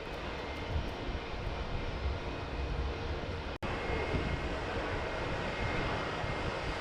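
Jet airliner engine noise: a steady, rushing rumble with no clear tones. It cuts out for an instant about halfway through.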